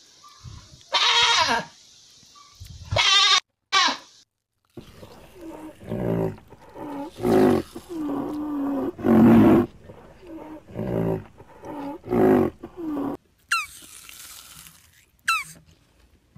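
A series of animal calls: a few short harsh calls in the first four seconds, then a run of pitched, rising-and-falling calls, and near the end a few quick high squeaks that fall in pitch.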